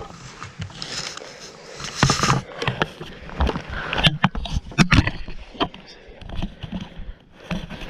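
Scattered knocks, clicks, scrapes and rustling as people shift about in a tree stand, with a cluster of sharp knocks in the middle.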